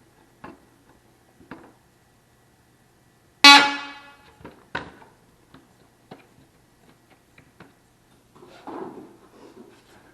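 A metal object rings out sharply once about three and a half seconds in and dies away within about half a second, among scattered light clicks and knocks from handling parts.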